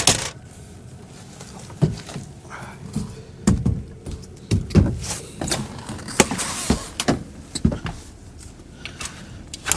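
A string of clunks, knocks and latch clicks with some rustling, from a truck's and truck camper's doors and latches being worked as gear is stowed and the camper is entered.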